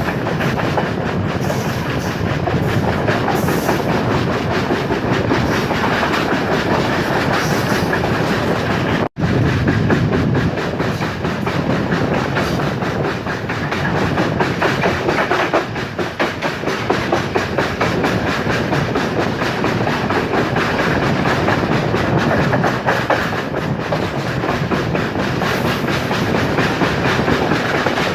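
Express train running at speed, a steady rumble of wheels on rails with a rhythmic clickety-clack over the rail joints. The sound drops out for an instant about nine seconds in.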